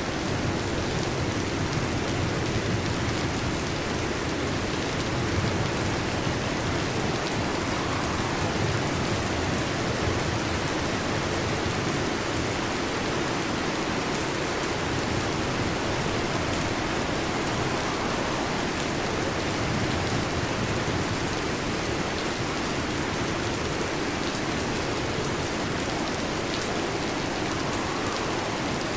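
Heavy rain falling steadily on a metal roof, a dense, even hiss of drops with no breaks.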